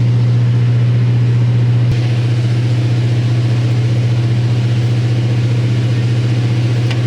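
Large engine running steadily with a low drone. About two seconds in there is a faint click and the drone drops slightly in level.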